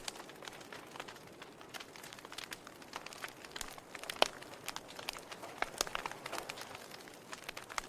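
Wood fire in a fireplace crackling: a soft hiss of burning with irregular sharp snaps and pops, one louder pop about halfway through.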